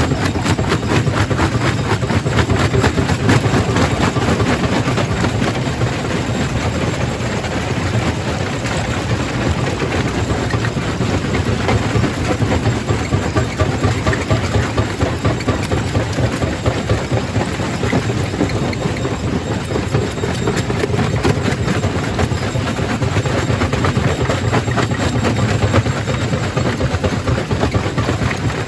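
Quarry primary rock crusher running: a steady heavy machine drone under a continuous dense clatter of rock being crushed and tumbling.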